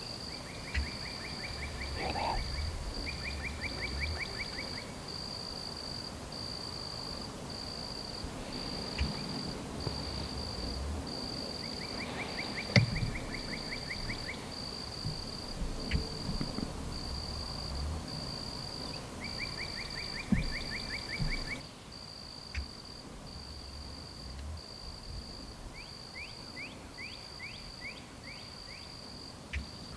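Outdoor rural ambience: an insect, cricket-like, chirps in a high, evenly pulsed rhythm throughout, while shorter trilled calls, likely birds or insects, come and go several times and quick rising chirps follow near the end. A few sharp knocks stand out about halfway through.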